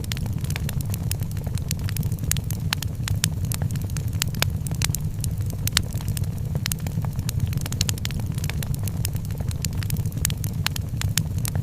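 Wood fire crackling in a fireplace: many sharp pops and snaps at irregular intervals over a steady low rumble of the flames.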